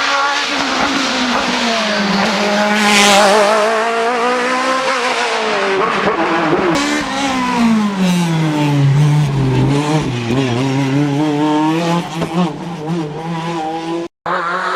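Racing car engine at high revs, its pitch climbing and falling with each gear change and lift-off. It drops lowest as the car slows for a bend, then rises again under acceleration. The sound cuts out for an instant near the end.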